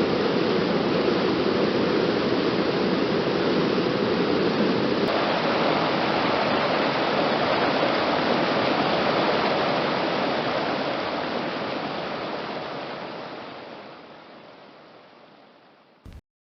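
Steady rushing water of a waterfall, its tone changing about five seconds in, then fading out over the last few seconds and ending with a brief click.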